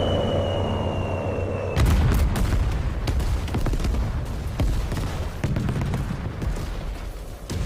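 A high whistle falling slightly in pitch for nearly two seconds, then a loud explosion about two seconds in. It is followed by a run of further blasts and crackling over a heavy low rumble: aerial bombs falling and detonating in an air raid.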